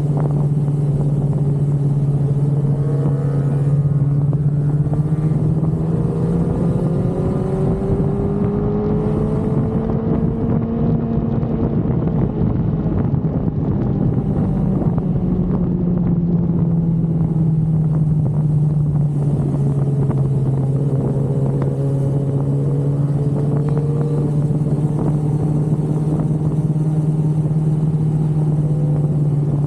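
Yamaha R1's inline-four engine running under way at a steady, moderate speed, its pitch rising and falling gently with small throttle changes rather than sharp revs.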